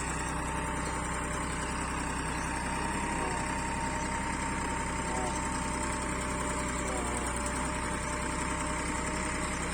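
Tractor diesel engine idling steadily, a constant low hum.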